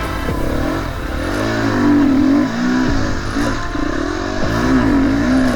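KTM four-stroke dirt bike engine under hard throttle, its revs rising and falling over and over as the throttle is worked on a slippery climb.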